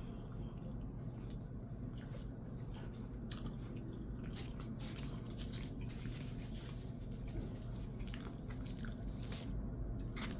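A person eating close to the microphone: wet chewing and biting with irregular small clicks and smacks, over a steady low hum.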